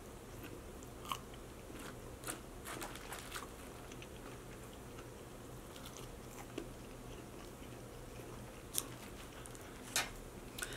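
Close-miked chewing of crinkle-cut french fries: soft wet mouth sounds with scattered faint crunches and clicks, a few louder ones about one, three, nine and ten seconds in.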